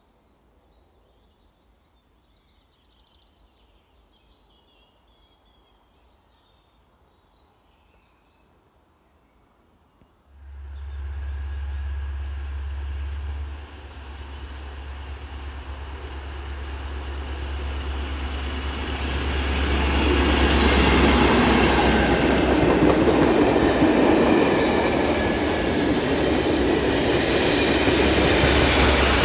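Faint birdsong, then a locomotive-hauled test train approaches and passes. About ten seconds in, a low hum starts suddenly. The rumble of wheels on rail grows steadily and stays loud and steady through the last ten seconds as the coaches go by.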